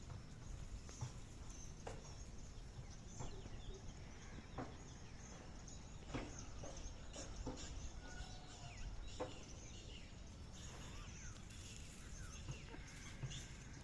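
Faint birds chirping now and then over a steady low outdoor rumble, with a few scattered clicks.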